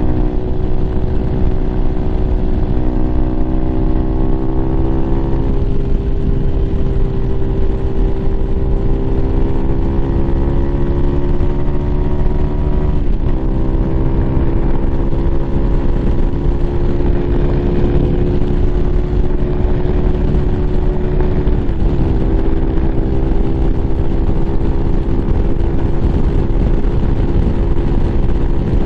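Lifan KPM 200's single-cylinder engine, fitted with an aftermarket exhaust, running at highway cruising speed. Its pitch eases down over the first few seconds and then holds steady, with two brief dips in revs, about halfway through and again about three quarters through, over a low rush of wind.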